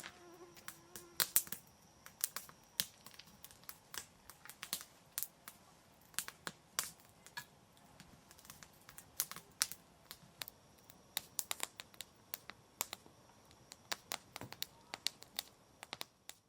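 Irregular sharp crackles and pops, several a second, over a faint steady hiss.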